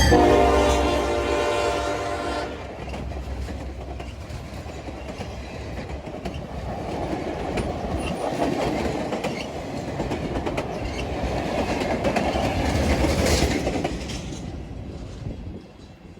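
Locomotive air horn, a Nathan K5LLA five-chime, finishing a blast over a deep diesel rumble; it cuts off about two and a half seconds in. After that the train's cars roll past with a steady clickety-clack of wheels on rail joints, which fades away near the end.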